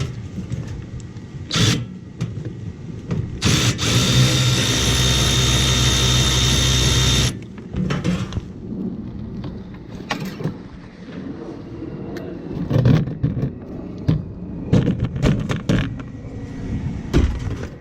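Cordless drill-driver running steadily for about four seconds, a few seconds in, and stopping suddenly, backing out a fastener on the generator housing; a short burst of the drill comes before it. Clicks and knocks of metal parts being handled follow.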